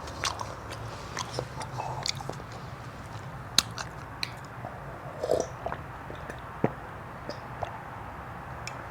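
Close-up eating sounds of a person biting and chewing food, with scattered short crunches and mouth clicks.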